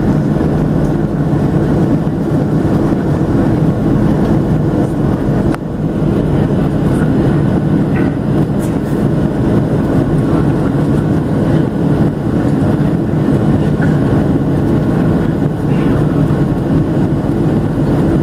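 Steady low rumble of a Boeing 737-700's engines and rushing air, heard from inside the passenger cabin, with a brief dip and a faint click about five seconds in.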